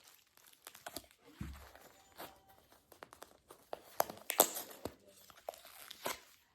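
Packaging being handled during an unboxing: crinkling and rustling with irregular sharp crackles, loudest about four seconds in.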